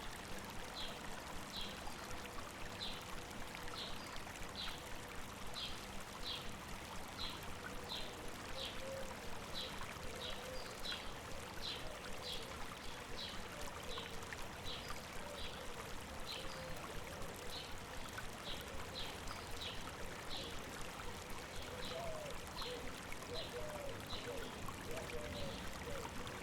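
River water running steadily, with a bird repeating a short high chirp about twice a second. Lower, wavering bird notes join in during the second half.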